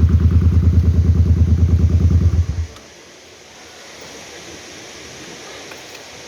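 A Suzuki Boulevard M800 V-twin motorcycle engine idling with an even, lumpy pulse, which stops abruptly about two and a half seconds in. A faint steady hiss follows.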